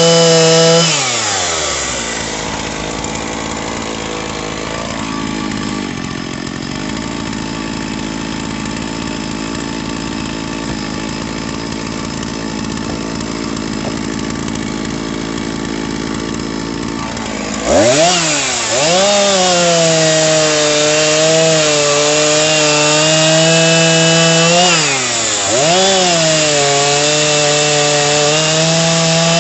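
Gasoline chainsaw at high revs. About a second in, the pitch drops into a lower, rougher steady sound for about fifteen seconds, typical of the chain cutting under load. It then jumps back to a high, free-revving whine that dips briefly in pitch three or four times.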